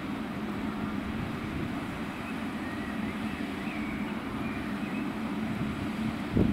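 A train running with a steady low hum and rumble. A brief low thump comes at the very end.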